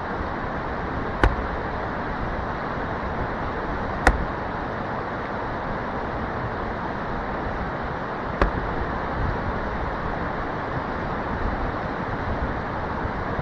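Three separate wood-splitting strikes into a dry, knotty log, each a single sharp knock, about 1, 4 and 8 seconds in. A steady rushing background noise runs under them.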